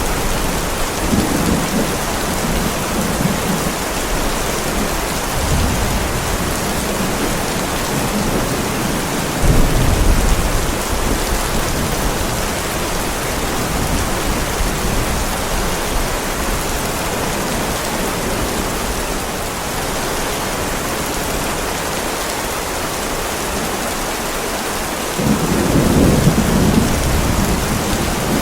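Heavy rain falling steadily on a driveway, with low rolls of thunder swelling about a second in, loudest about ten seconds in, and again near the end.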